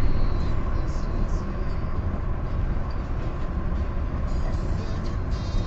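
A car driving at highway speed, heard from inside the cabin: a steady low rumble of tyres, engine and wind.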